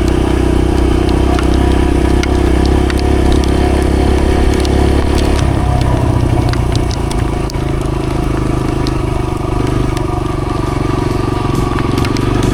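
Dirt bike engine running steadily while being ridden on a trail, its note changing about five and a half seconds in, with scattered sharp clicks over it.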